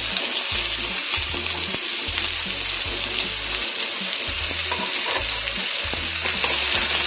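Vegetable pieces shallow-frying in oil on a flat pan, a steady sizzle, with a metal spatula scraping and clicking on the pan as it turns them.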